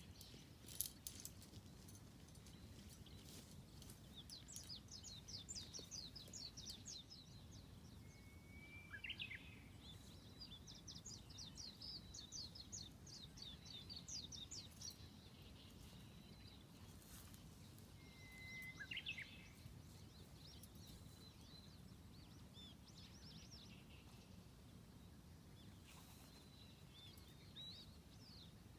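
Faint songbirds singing: several runs of rapid high trills and, twice, a short whistled call, over a low steady background rumble.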